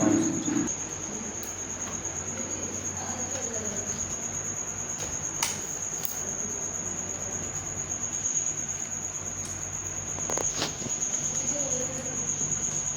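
Refrigerator compressor running with a steady low hum while its gas pressure is checked on a gauge. A steady, shrill high-pitched tone sounds over it throughout, and a few sharp clicks come about five, six and ten seconds in.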